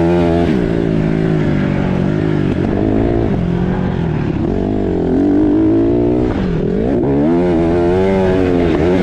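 Dirt bike engine revving as the bike is ridden, its pitch repeatedly rising and falling with the throttle, with marked drops about half a second in and again about six and a half seconds in.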